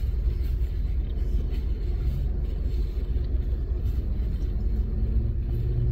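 Steady low rumble inside a parked car's cabin with the engine idling, and faint small rustles on top.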